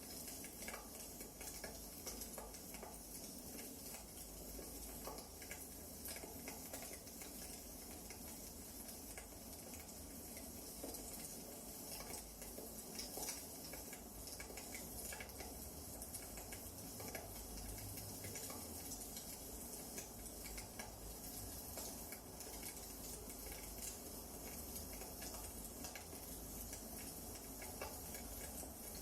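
Wood fire burning in a fireplace, with small irregular crackles and pops over a low, steady hiss.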